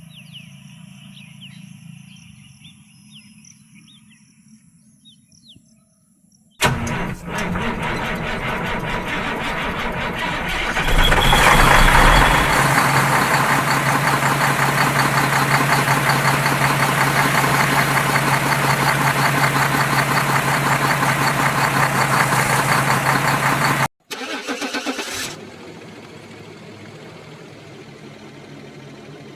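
A vehicle engine sound starts abruptly about six seconds in, swells a few seconds later, then runs steadily with a low hum until it cuts off suddenly.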